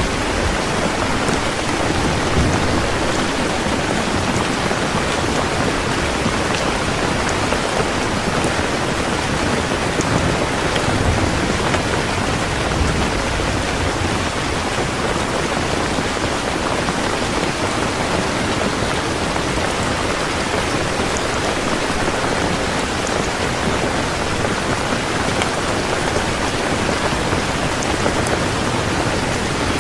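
Heavy rain falling steadily on a surface, with a low rumble of thunder now and then.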